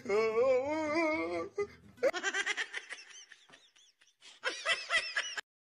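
Laughter: a wavering, pitched laugh for about two seconds, then rapid high-pitched giggling that stops abruptly just before the end.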